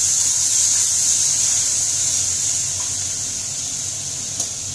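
Tomato sauce sizzling in a hot kadai of sautéed onions, capsicum and green chillies: a loud, steady hiss that slowly fades. Near the end come a couple of light clicks, typical of the metal slotted spoon touching the pan.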